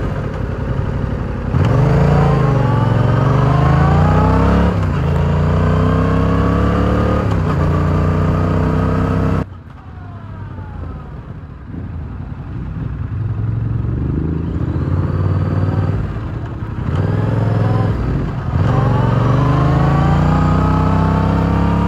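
Yamaha R7's 689 cc parallel-twin engine through its stock exhaust, accelerating through the gears: the pitch rises and falls back at each upshift. About halfway the throttle shuts and it drops to a quieter deceleration, then pulls up through the gears again with rising pitch.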